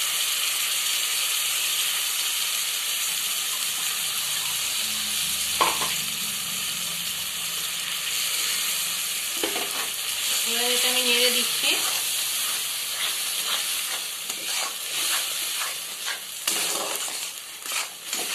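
Spice paste thinned with coconut water sizzling in mustard oil in a steel kadai, stirred with a flat metal spatula. A steady frying hiss runs throughout, with sharper scrapes and clicks of the spatula on the pan in the last few seconds.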